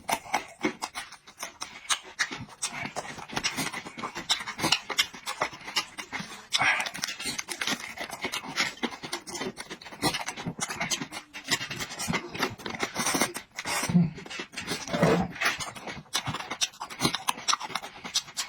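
A person chewing and eating food close to the microphone, a dense, irregular run of mouth clicks and smacks with breathing between bites.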